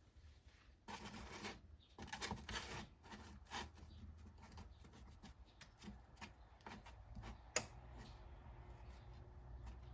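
Rustling of chocolate packaging and wrappers, with scattered small clicks and taps as chocolate pieces are set onto the marshmallow-topped graham crackers. One sharper click comes late on.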